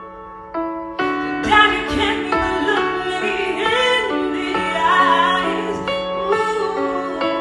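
Piano playing sustained chords, with a singing voice coming in over it about a second in, sliding and bending between notes.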